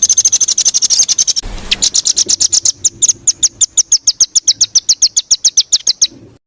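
Songbird singing fast trains of short, sharp high notes, several a second, the rapid 'tembakan' bursts sought in masteran song. The song breaks off briefly about a second and a half in, resumes, and cuts off abruptly near the end.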